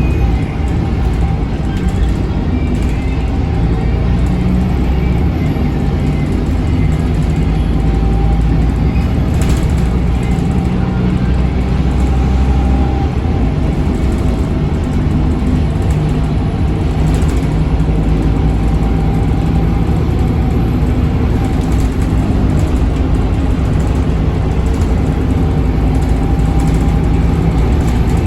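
Scania K280UB bus's 9-litre five-cylinder Scania DC9 diesel engine running steadily, heard from on board. A steady engine drone with a fainter higher tone over it, and a few light rattles.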